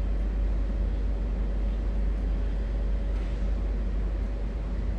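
Steady low rumble with a thin constant hum, the background noise of a large prayer hall with no one reciting.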